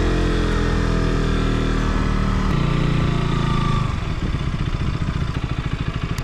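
KTM RC motorcycle's single-cylinder engine running as the bike slows, its note falling, then idling with a pulsing beat over the last two seconds as it rolls to a stop.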